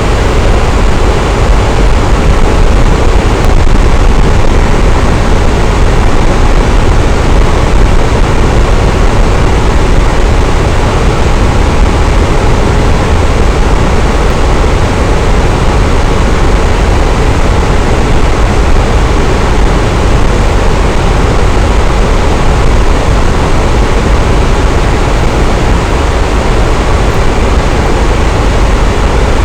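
Electric fan running steadily: a constant, even rush of air, heaviest in the low end, with no changes or breaks.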